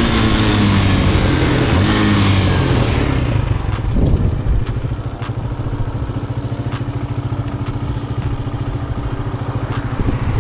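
Motorcycle engine easing off with wind rush, its pitch falling over the first few seconds, then running steadily at a low, even pulse.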